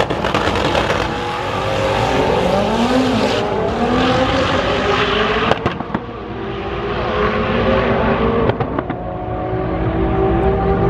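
Several car engines revving and accelerating at once, their pitch rising in overlapping sweeps, with a few sharp clicks partway through.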